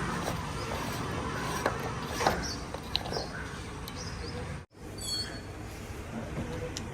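Heavy machinery's diesel engine running steadily at low revs, with a few scattered knocks and clicks. The sound cuts out briefly about two thirds in, and a few short high chirps follow.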